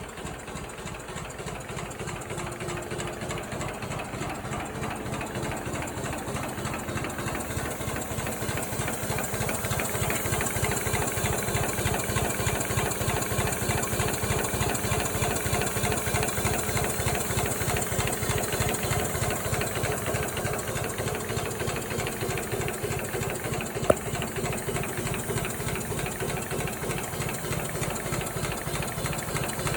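Replica Locomobile steam car engine running on compressed air, its exhaust beating in a quick, even rhythm. It grows louder over the first ten seconds, then runs steadily, with one sharp click about three-quarters of the way through.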